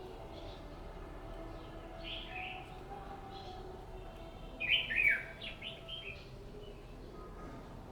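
Red-whiskered bulbul singing in short warbled phrases: a brief phrase about two seconds in, a louder, fuller phrase near the middle, then a few short notes. A faint steady hum runs beneath.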